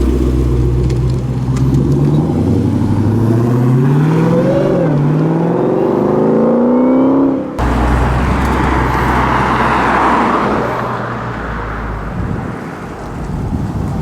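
Dodge Challenger Hellcat's supercharged V8 accelerating, revs climbing, dropping briefly at a gearshift and climbing again. After a sudden cut comes a steady engine drone with a rushing tyre and wind noise that swells and fades.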